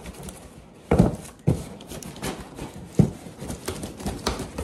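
Cardboard packaging being handled as an inner box is worked out of an outer box: scraping and rustling with a few sharp knocks, the loudest about a second in and at about three seconds.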